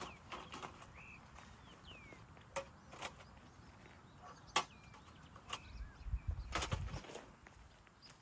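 Scattered sharp clicks and knocks of gear being handled, with a heavier rustling thud about six to seven seconds in. Faint bird chirps sound behind them in the quiet open air.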